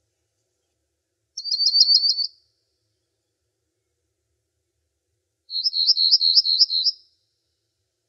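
A songbird singing two short high-pitched trills of quickly repeated notes, about six to seven notes a second: one about a second in, and a longer one about five and a half seconds in.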